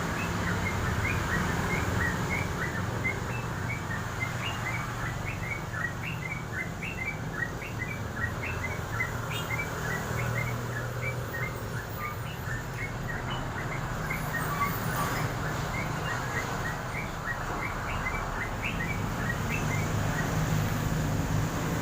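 Olive-winged bulbul (trocokan) singing: a long run of short, rising chirps, about three a second, that thins out near the end, over a steady low hum.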